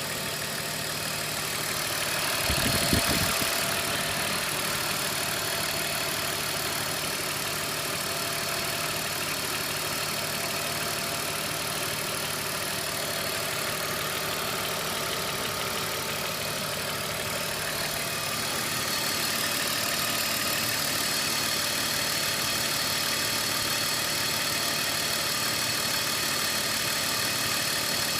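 BMW M54 2.5-litre straight-six engine idling with a knock that the owner puts down to the VANOS variable valve timing, and an idle speed that wanders. A brief louder low-pitched burst comes about three seconds in, and the sound steps up a little about nineteen seconds in.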